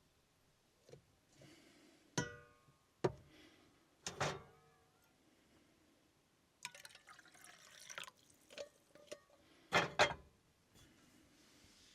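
Objects being handled in a small room: a clink that rings briefly, several sharp knocks and a stretch of rustling, with the loudest double knock near the end.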